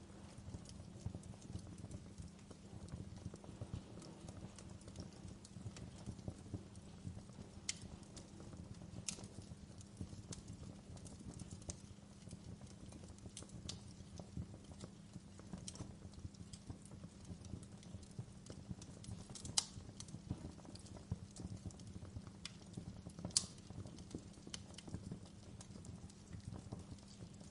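Wood fire in a fireplace crackling steadily, with occasional sharper pops of burning logs, about six times.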